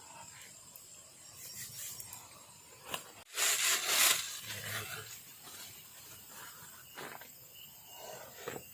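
Rustling and handling noises, with one loud scraping rub lasting about a second, a little over three seconds in. Faint night insects chirr underneath.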